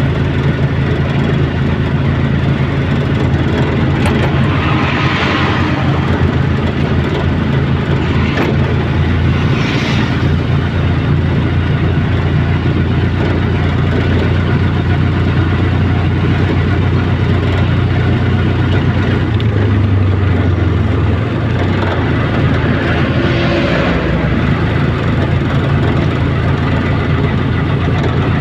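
Steady, loud, low engine drone running without a break, with a few brief higher hissing swells over it.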